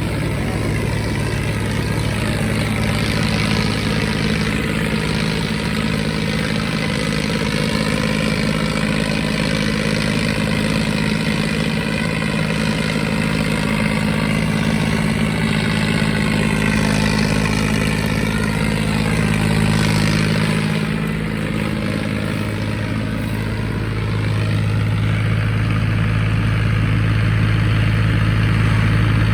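John Deere 5039 tractor's diesel engine running steadily. Its note shifts about two seconds in, dips briefly about two-thirds through, then settles onto a stronger, lower note near the end.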